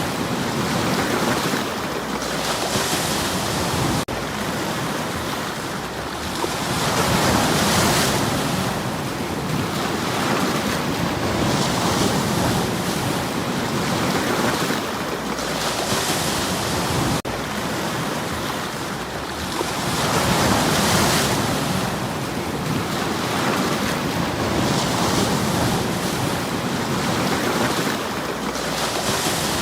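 Sea waves washing in over stones on the shore, a steady surf that swells into a hiss every few seconds and falls back. The biggest waves come about a quarter of the way in and again about two-thirds through.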